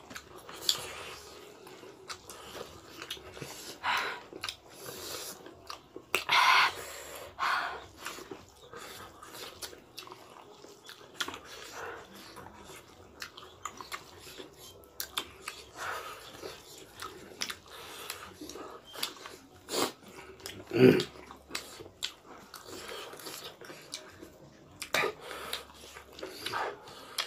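Close-miked chewing and mouth sounds of people eating rice and curry by hand: wet smacks and many small clicks, with a few short, louder sounds at intervals.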